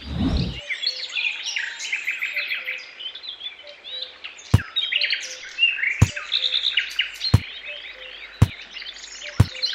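Songbirds chirping busily, with five sharp taps or clicks coming every second or so through the second half.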